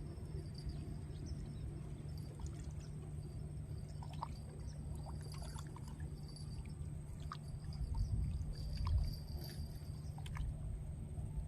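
Water sloshing and lapping around a boat over a steady low hum, with scattered small clicks and a brief swell in the low rumble about eight seconds in.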